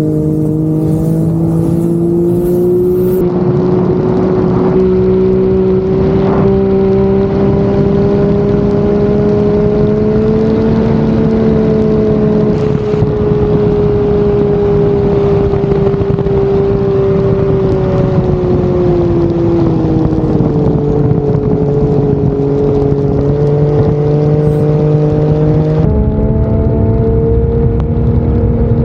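Turbocharged Ford 4.0-litre inline-six race-boat engine running hard under load at speed. Its pitch holds steady with slow rises and falls, and shifts abruptly about three seconds in and again near the end.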